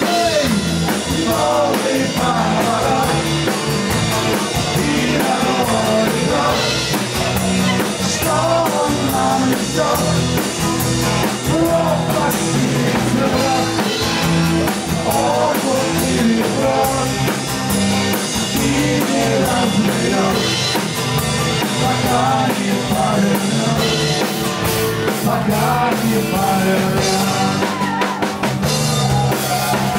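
Live rock band playing a loud, continuous instrumental passage: drum kit and bass under a wavering lead melody, with no words sung.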